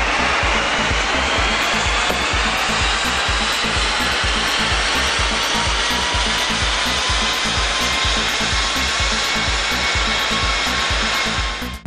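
Land Rover Range Rover Evoque TD4's 2.2-litre four-cylinder turbodiesel pulling at full load on a chassis dynamometer, its pitch rising steadily as the revs climb through the run, with the rumble of the tyres on the rollers. The sound stops abruptly near the end.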